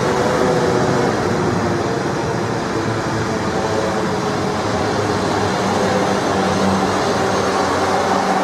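Passenger train running along the platform and pulling away: a steady rumble of wheels and running gear with a low hum in it.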